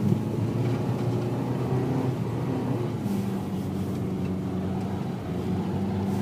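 Car engine running steadily while driving slowly, heard from inside the cabin; the engine note shifts a little two to three seconds in.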